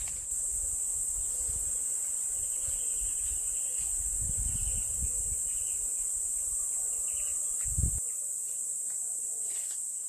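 Insects chirring in a steady, high-pitched chorus. A low rumble runs underneath and stops with a thump about eight seconds in.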